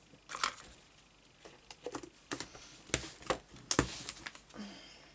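A run of about seven irregular light taps and clicks from hands handling craft materials on a desk.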